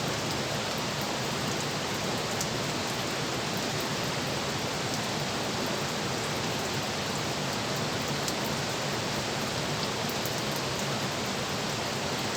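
Steady rush of water: an even, unbroken hiss with a few faint ticks.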